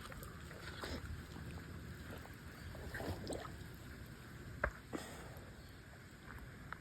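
Creek water sloshing around the legs of someone wading, with two sharp knocks close together about two-thirds of the way through.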